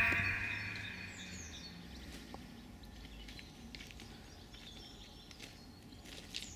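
Music dies away in the first second, leaving faint outdoor ambience with a few short, high bird chirps.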